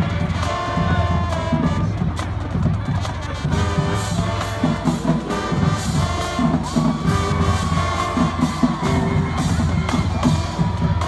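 High school marching band playing, brass carrying a melody over a steady drumbeat, with a crowd cheering.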